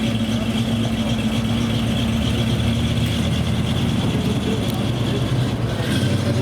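A car engine idling steadily close by, a continuous low running sound.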